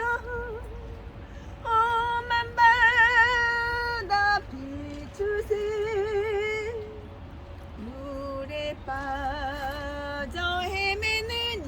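A woman singing a Korean hymn in a single voice, drawing out long held notes with a wide vibrato and gliding between pitches, under a steady low rumble.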